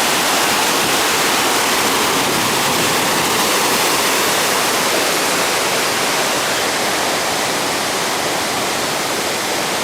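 Ryūzu Falls, water cascading down a rock slope: a steady, loud rushing hiss with little low rumble.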